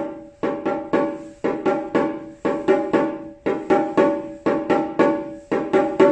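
Shime daiko, a small rope-tensioned Japanese taiko drum, struck with sticks in a steady repeating rhythm, played softly; each stroke is a short, high, ringing knock.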